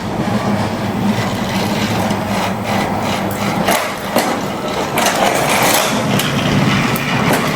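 Small motor of a battery-powered toy train whirring steadily, with scattered plastic clicks and scrapes from the toys.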